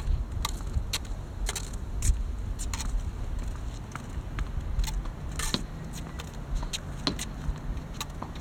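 A string of sharp taps and clicks at irregular spacing, roughly one or two a second, over a low rumble.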